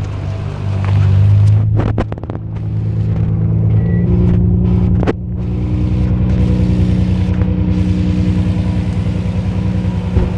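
Nissan Skyline R32 GT-R's RB26DETT twin-turbo straight-six running steadily close by, a low even throb whose tone shifts a little higher about four seconds in. A few sharp clicks about two seconds in.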